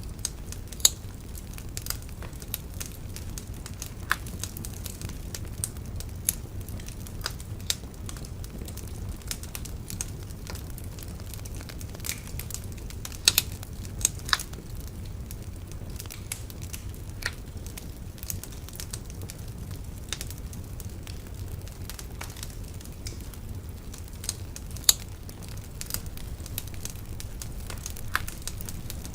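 Wood bonfire burning steadily with a low rumble and irregular crackling pops, a few louder snaps among them.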